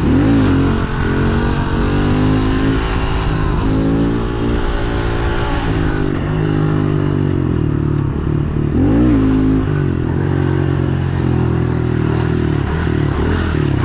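Pit bike engine running under way, holding a steady pitch, with the revs rising and falling briefly about a second in and again about nine seconds in.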